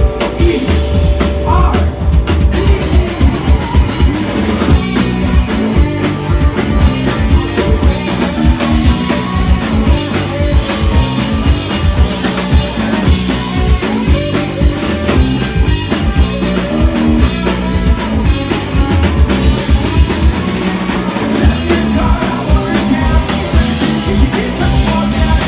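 A rock band playing live, full drum kit with guitars and sung vocals.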